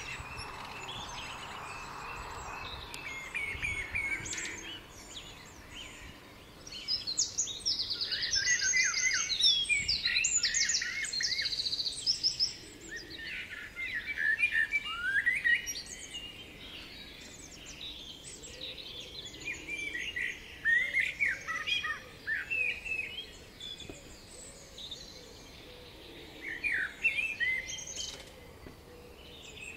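Several songbirds singing and chirping, with a loud run of rapid high-pitched trilled notes about seven to twelve seconds in.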